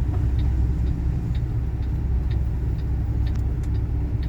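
Low, steady road and engine rumble inside a moving vehicle's cabin, with faint clicks about once a second.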